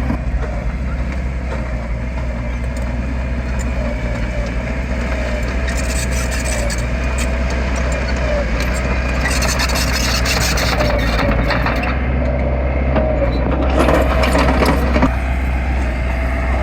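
Heavy diesel earthmoving machinery running steadily, with a wavering whine over the engine. Three bursts of scraping and clatter come in, about six seconds in, around the tenth second and near the end.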